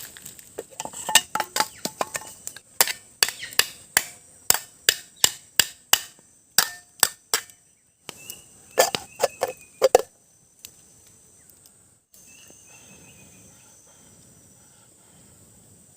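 Rapid sharp knocks of a tool striking wood, about two a second for some seven seconds, then a quick flurry of strikes near ten seconds. A steady high insect drone runs underneath and is all that is left in the last few seconds.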